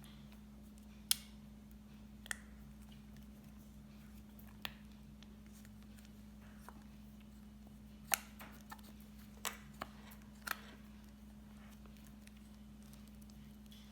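Sparse, sharp clicks and taps, about seven of them at irregular intervals, over a steady low hum.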